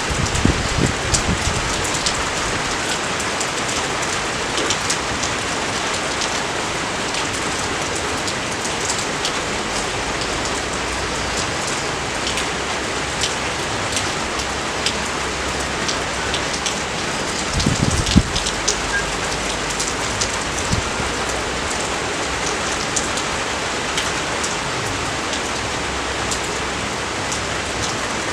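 Steady rain falling with a dense patter of drops. A few heavier, closer drop impacts stand out about a second in and again about 18 seconds in.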